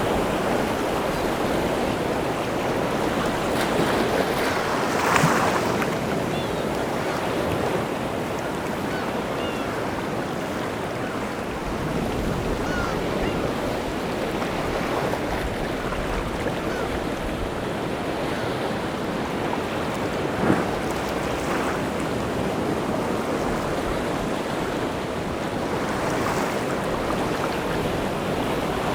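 Rough, wind-driven sea surf breaking in a continuous wash of waves, with two sharper crashes, one about five seconds in and one about twenty seconds in.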